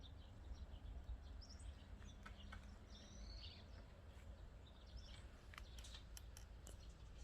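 Faint small birds chirping now and then over a low, steady rumble, with a few light clicks near the end.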